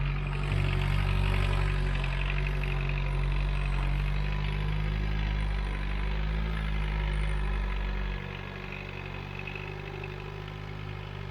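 Homemade mini tractor's Volkswagen Golf 1.6 turbo-diesel engine running steadily while plowing. Its low hum drops in level about eight seconds in.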